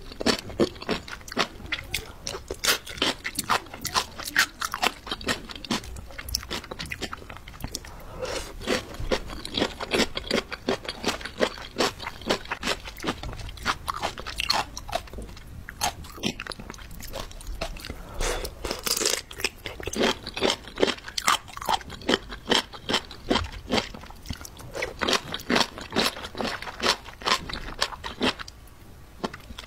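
Close-miked crunching and chewing of jellyfish: many quick, crisp crunches in dense succession, easing off briefly near the end.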